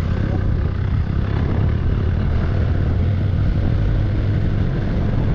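Motorcycle running steadily while being ridden, its low engine rumble mixed with wind and road noise on the microphone.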